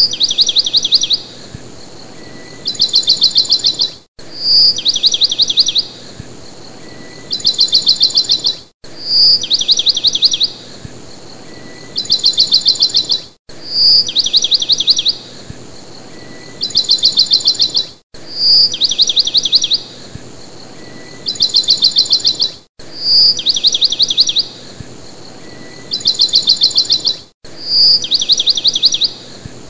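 Bird call, looped: a single clear high note followed by a fast trill, then a second trill, the identical sequence repeating about every four and a half seconds with a brief dropout before each repeat.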